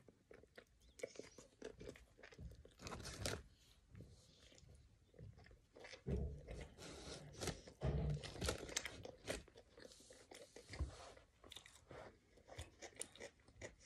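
A person chewing a mouthful of Burger King Whopper close to the microphone: irregular crunching and wet mouth clicks. Two dull bumps come about six and eight seconds in.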